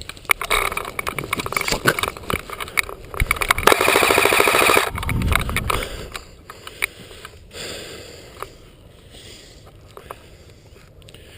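Airsoft electric rifle (AEG) firing: scattered single shots and short bursts over the first few seconds, then a sustained full-auto burst of about a second and a half around four seconds in, a fast even rattle of the gearbox cycling.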